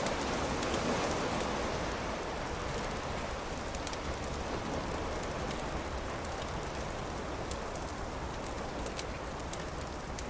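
Campfire crackling, with sharp irregular pops throughout over a steady rushing background that swells slightly in the first couple of seconds.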